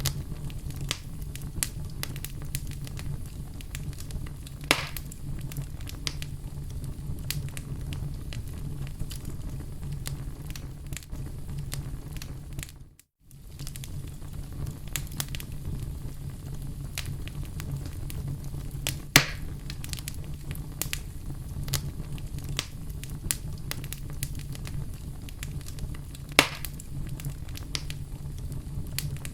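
Fire burning in a fireplace: a steady low rumble of flames with constant small crackles and three louder pops. The sound drops out for a split second near the middle.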